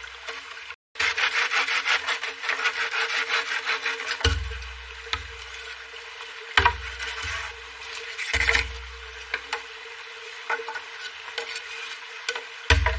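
A hand tool rasping on wood: quick, even strokes of about four or five a second for a few seconds, then slower, separate strokes and knocks.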